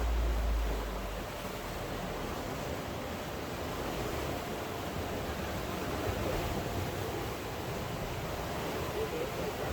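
Steady rushing noise of rain and sea surf. A low wind rumble on the microphone fades out about a second in.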